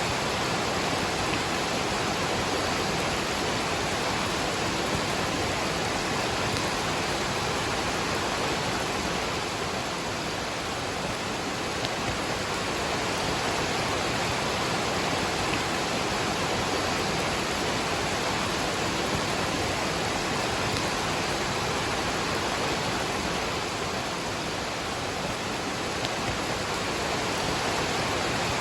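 Waterfall and rain: a steady, even rush of falling water that does not change.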